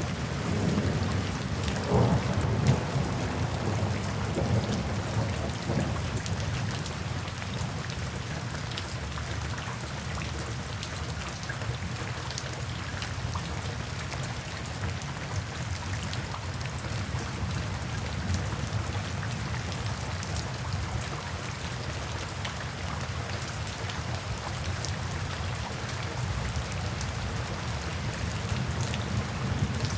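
Steady rain falling, with fine drop ticks over a constant hiss. A low rumble swells and fades over the first few seconds.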